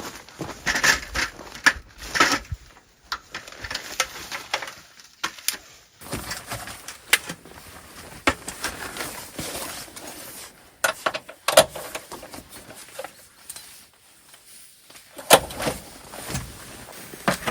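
Objects being handled at close range: scattered clicks, knocks and clinks over a soft rustling, with no steady rhythm.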